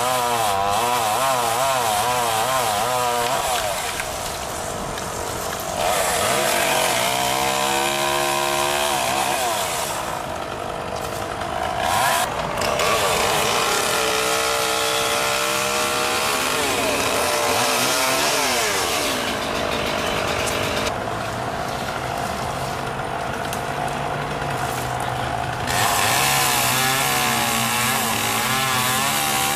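Gasoline chainsaw running and cutting branch wood, its engine pitch repeatedly rising and falling as it revs and bogs under load.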